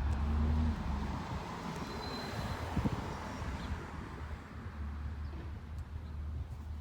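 Garbage truck running with a low drone, with a swell of rushing mechanical noise in the middle and a single knock about three seconds in.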